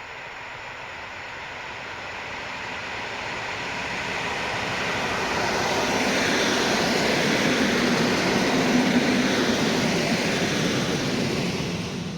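A train passing on the line: the noise of wheels on the rails grows steadily louder over the first half and then stays loud.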